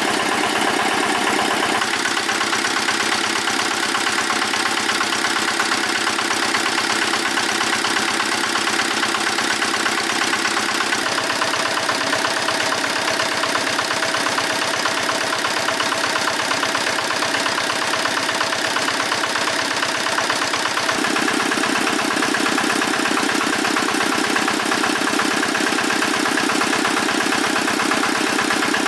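Engine of the restored 20 kW generator set running steadily on test, with a fast, even firing beat. Its tone shifts abruptly about two seconds in, near the middle and about two-thirds of the way through.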